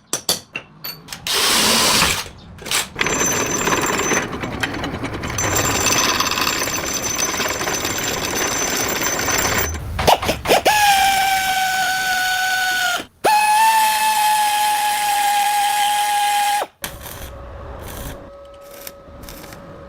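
Power tool at work on metal: a few metallic clinks, then a rushing grind for several seconds, then a steady high whine that stops abruptly, followed by a fainter, lower hum as the tool runs down.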